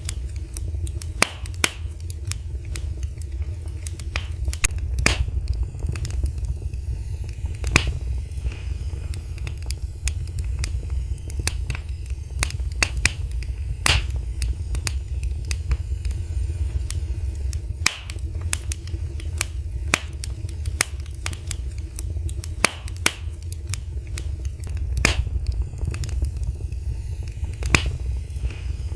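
Wood fire burning in a fireplace, crackling with irregular sharp pops and snaps, a few several a second and others spaced out, over a steady low rumble.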